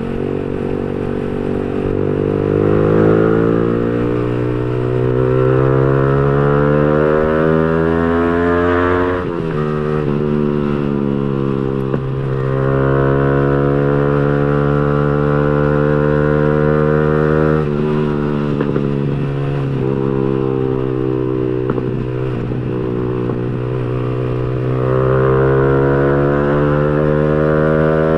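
Yamaha R15 V3's single-cylinder engine through an aftermarket racing exhaust, riding under acceleration: the exhaust note climbs in pitch and drops sharply at gear changes about nine and eighteen seconds in.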